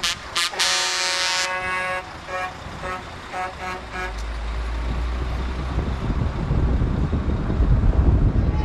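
Truck air horns blasting, then a run of about five short toots. After that a deep rumble of heavy trucks builds up, loudest near the end.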